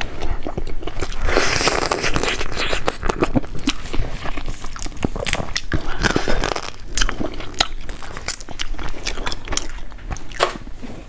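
Close-up biting and chewing of crab chunks in spicy sauce, with crunching and many quick clicks, heaviest about a second in and again around the middle.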